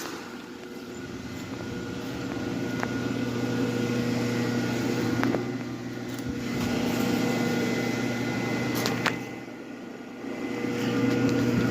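Steady mechanical hum of a running motor that swells and dips in level, with a few light clicks.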